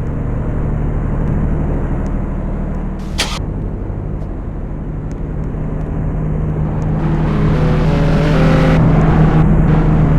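Car engine idling steadily at close range. There is a single sharp click about three seconds in, and the engine sound grows louder and fuller from about seven seconds in.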